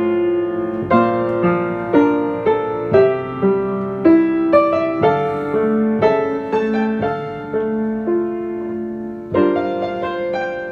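Piano playing both hands together in F major, a steady melody struck about twice a second over held lower notes, with a fuller chord struck near the end.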